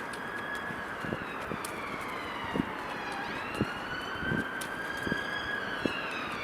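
Siren wailing, its pitch slowly falling and then rising again, with several short dull thumps.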